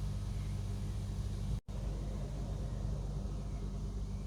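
Automatic car wash's high-pressure water jets spraying the car, heard from inside the cabin as a steady low rumble with hiss. The sound cuts out for a split second about a second and a half in.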